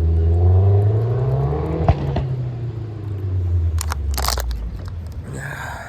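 A car engine running, its pitch rising and then falling as it fades away, with a couple of sharp clicks about two seconds in and some rustling and scraping toward the end.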